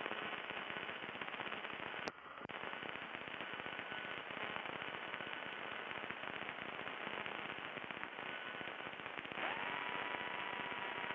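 Crackling static on the light aircraft's radio audio between transmissions. A faint steady whistle comes in about nine seconds in.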